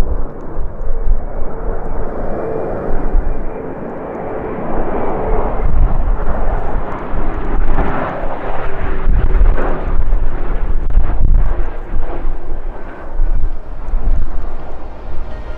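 Jet airliner's engines rushing as it passes, with a faint whine slowly falling in pitch. Gusting wind buffets the microphone with low rumbles.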